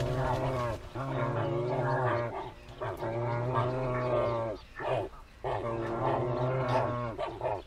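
Dalmatian pelicans giving deep, moo-like calls, one after another, each lasting a second or so with short breaks between them.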